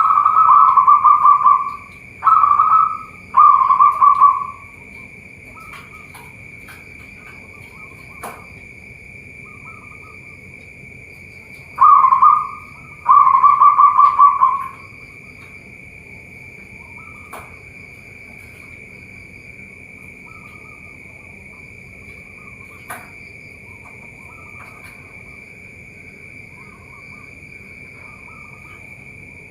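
Zebra dove (perkutut) cooing: two bouts of loud, rapidly pulsed coo phrases, three near the start and two more about halfway. A steady high-pitched ringing continues underneath, with occasional sharp clicks.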